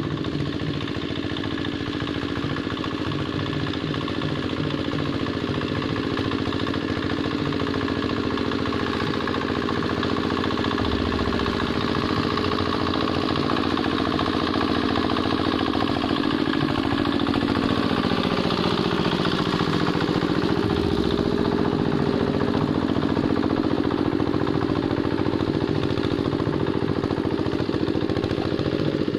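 Quick Capung Metal hand tractor's single-cylinder diesel engine running steadily while ploughing a wet rice paddy. Its note shifts in pitch a little past the middle.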